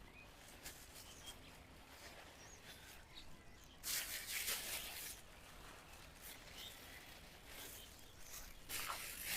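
Faint birds chirping in the open, a few scattered short calls, with two brief bursts of rustling noise, one about four seconds in and one near the end.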